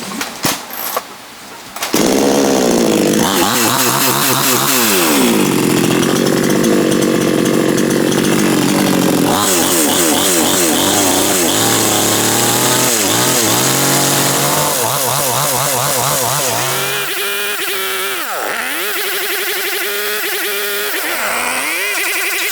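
Chainsaw running and cutting wood, starting about two seconds in, its engine pitch rising and falling as it bites under load; a few knocks come before it.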